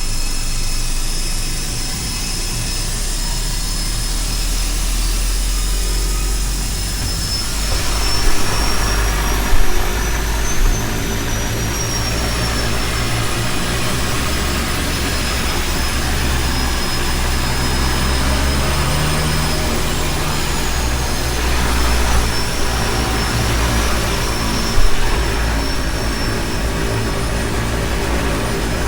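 Seaplane's turboprop engines running: a steady low drone with a high turbine whine that drifts up and down in pitch, the noise swelling fuller about eight seconds in.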